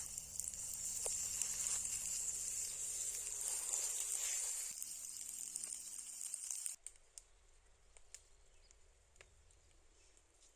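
Meat sizzling on a hot stone: a steady high hiss that cuts off suddenly about two-thirds of the way in, leaving only a few faint crackles.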